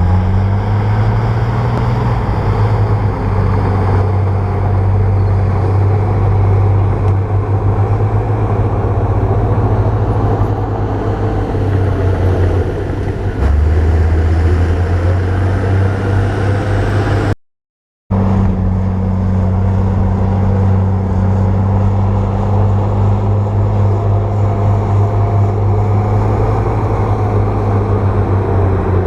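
A bulldozer's diesel engine running steadily under load, a deep, even hum. The sound drops out completely for about half a second partway through, then the engine sound returns.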